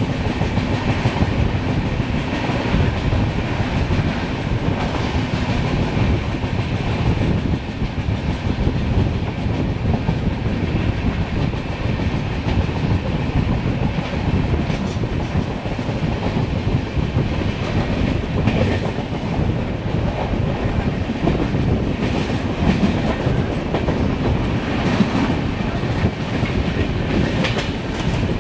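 LHB passenger coach running at speed, its wheels rolling along the track in a steady rumble. A few sharper clacks stand out about halfway through and near the end.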